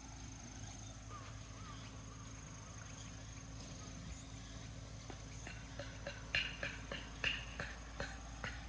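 Insects, likely crickets, chirping as a steady thin high hum in the background. From about halfway through, a series of irregular sharp clicks or light knocks comes roughly twice a second.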